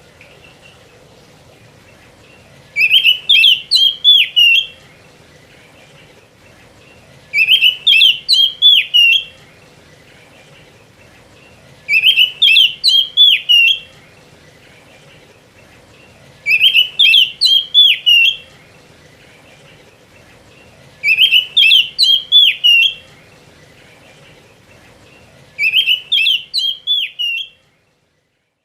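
Oriental magpie-robin (kacer) singing loud, rapid phrases of whistled notes. The same roughly two-second phrase is repeated six times, about every four and a half seconds.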